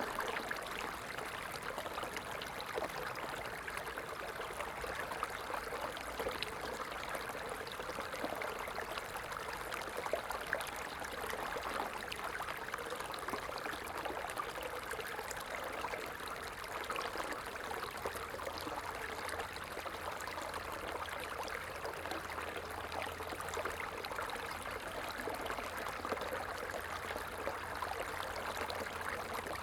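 A stream running: steady, even burbling and splashing of flowing water.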